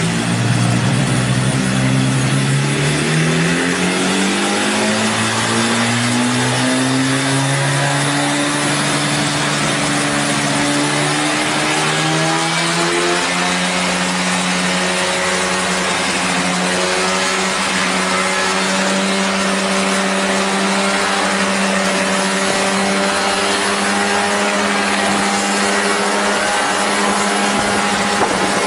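Engine and propeller of a homemade aircraft running, the pitch climbing smoothly as it speeds up over roughly the first dozen seconds, then holding steady at speed.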